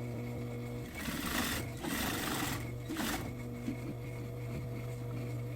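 Sewing machine running: a steady motor hum, with a louder, noisier stretch of stitching from about one to three seconds in.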